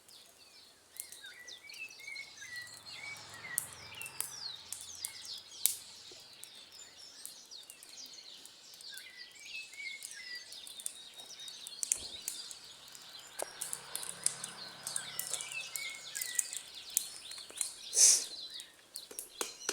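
Several birds chirping and calling, one repeating a short wavering phrase three times, over scattered sharp crackles from burning wood. Near the end comes a brief loud hiss, the loudest sound.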